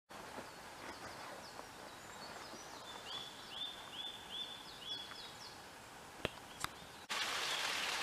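Birds singing, with a repeated run of short downward-slurred whistles, and two sharp clicks near the end. About seven seconds in, the sound switches abruptly to the loud, steady rush of a waterfall.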